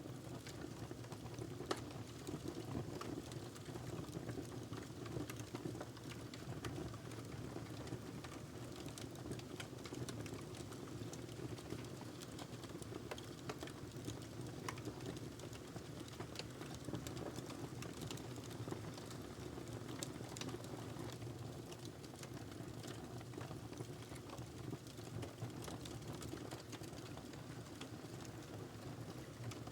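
Wood fire crackling: a steady low rush of burning with frequent small, irregular pops and snaps.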